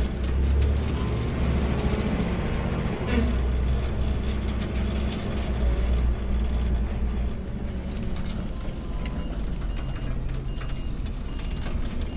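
Automated sideload garbage truck running, a heavy low engine rumble heard from the driver's seat, with a sharp knock about three seconds in. From about eight seconds a faint high beep repeats about once a second.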